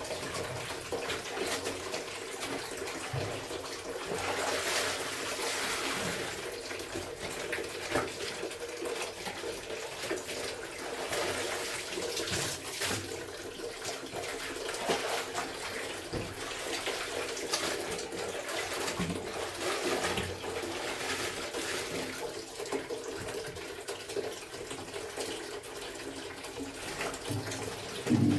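Water running and splashing in repeated surges as clothes are washed by hand, with a low hum beneath and a thump near the end.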